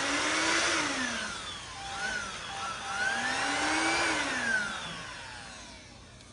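An electric motor whining, its pitch sweeping up and down several times as it speeds up and slows down. It fades away near the end.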